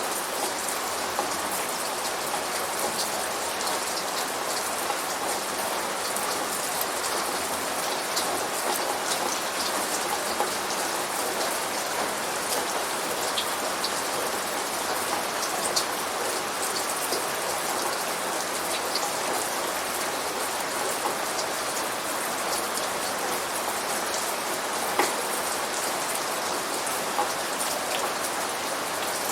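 Steady rain falling on a surface, with scattered individual drops ticking through the even hiss and one sharper drip about 25 seconds in. No thunder.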